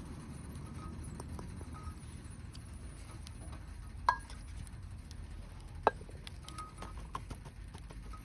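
Wood fire crackling with scattered small ticks and pops over a low rumble, and two sharp clinks with a short ring, about four and six seconds in.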